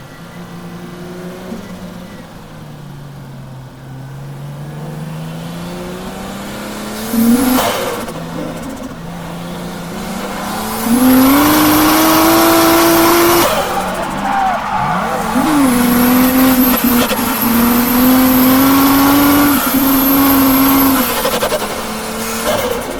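Toyota JZX Tourer drift car's turbocharged straight-six revving, its pitch dipping and rising, then held high and hard for two long stretches about halfway through and again after a brief lift, with a high tyre squeal over the full-throttle parts. The driver says the engine is misfiring.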